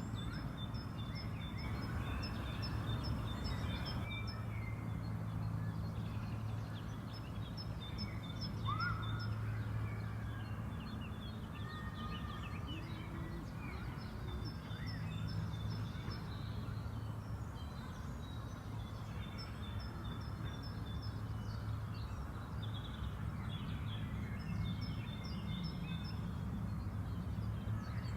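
Several songbirds singing, with short rapid trills repeated again and again, over a steady low hum and outdoor background noise.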